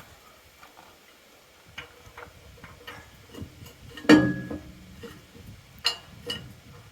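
Steel parts of a truck-hitch game hoist clicking and knocking together as they are fitted by hand. There is one loud metallic clank about four seconds in that rings briefly, and a smaller clank near six seconds.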